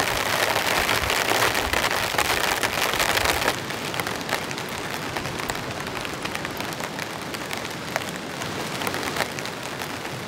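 Heavy rain falling steadily, dense and loud for the first few seconds, then a little lighter with individual drops ticking distinctly.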